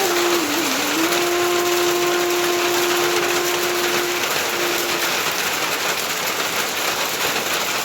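Steady heavy rain, a dense even hiss. A single musical note is held over it for about four seconds starting a second in.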